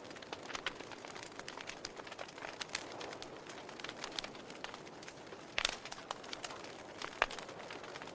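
Wood fire in a fireplace crackling: a steady hiss broken by irregular sharp pops and snaps, with two louder pops about five and a half and seven seconds in.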